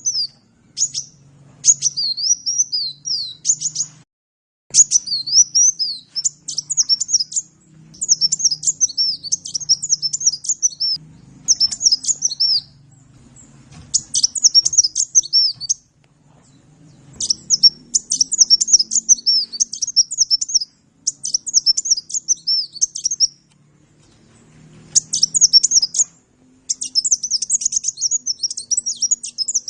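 Sunbird (kolibri) song: bursts of rapid, high-pitched twittering chirps, each lasting one to three seconds with short pauses between them, running into a denser unbroken stretch near the end.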